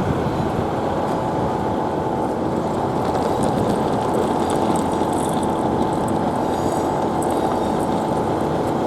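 Class 158 diesel multiple unit's engine idling steadily, a low even drone.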